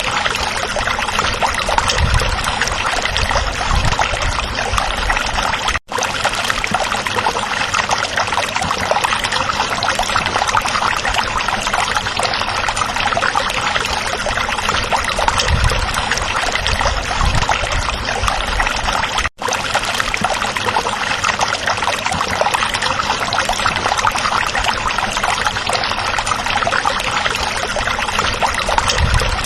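A stream running over rocks: a steady babbling rush of water with low gurgles now and then. The sound cuts out for an instant twice, about six and nineteen seconds in.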